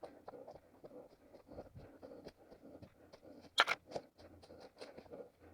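A runner's footsteps crunching through forest-floor leaf litter and twigs, a quick run of irregular clicks and crunches, with one much louder sharp crack about three and a half seconds in.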